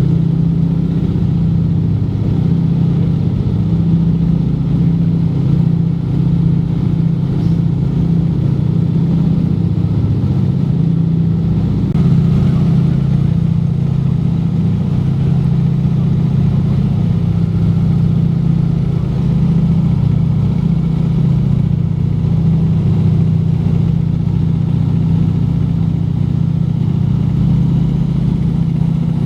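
Junkers Ju 52's three radial engines running steadily, a continuous low drone with no change in pitch or level.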